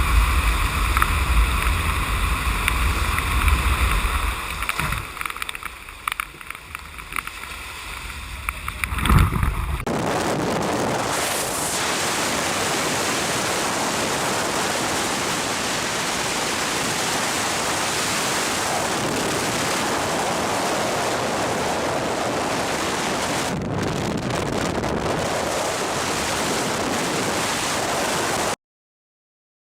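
Wind and rushing water noise, with a heavy rumble of wind on the microphone at first. About ten seconds in it changes abruptly to a steady, even rush, which cuts off suddenly near the end.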